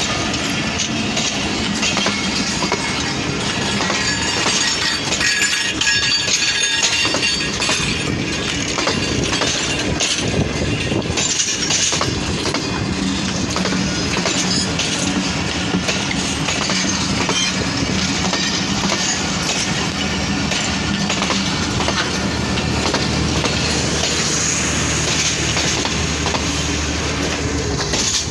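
Passenger train rolling along the track as it departs the station: steady wheel-on-rail noise with clickety-clack from the wheels crossing rail joints.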